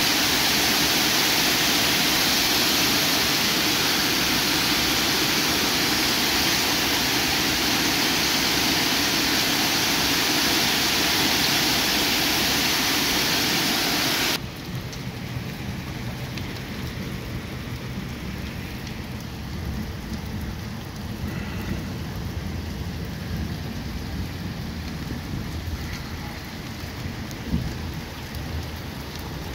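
Heavy rain and hail pelting a street, a loud, dense, steady hiss. About fourteen seconds in it cuts abruptly to a quieter, steady downpour on a wet, hail-covered pavement, with a single short knock near the end.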